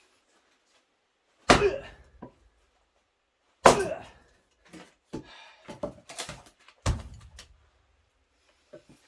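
Axe splitting a wild cherry firewood log: three hard, sharp hits, the second the loudest, with lighter wooden clattering of the pieces between the second and third.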